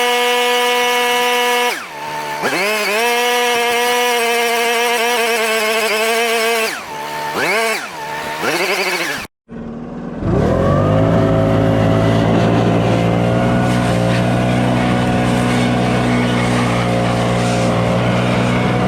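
A small engine running at a steady high pitch, then dipping and rising in pitch several times. After a sudden break about nine seconds in, an engine with a lower pitch comes up to speed and runs steadily.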